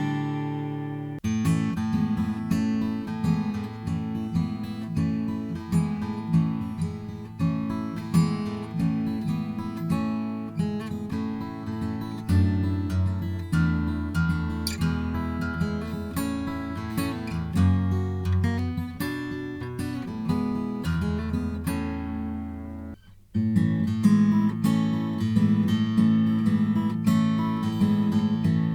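Slope-shoulder dreadnought acoustic guitar being strummed and fingerpicked, chords mixed with low bass notes. About a second in the sound changes abruptly. Near the end it stops briefly and then starts again louder.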